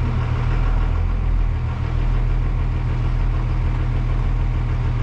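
School bus's 24-valve Cummins inline-six diesel idling steadily as it warms up on its first run after five months parked, heard from inside the bus.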